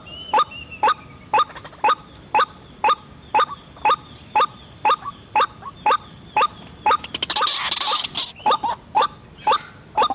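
White-breasted waterhen calls, a sharp note repeated steadily about twice a second, the ruak-ruak call used to lure the birds. A brief hiss comes about seven seconds in.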